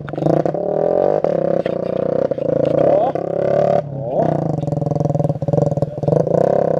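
Motorcycle engine running loud through its exhaust with a steady drone, revving up briefly around three and four seconds in.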